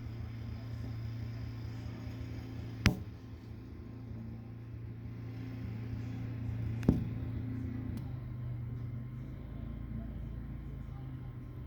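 A steady low motor hum, broken by two sharp knocks about four seconds apart.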